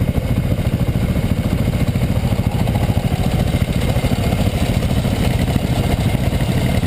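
Dual-sport motorcycle engines running steadily at low revs, a dense, rapidly pulsing low rumble with no revving up or down.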